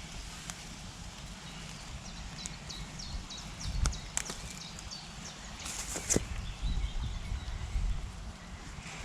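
Outdoor footsteps and scattered knocks with a low rumble. Short high bird chirps sound several times in the middle.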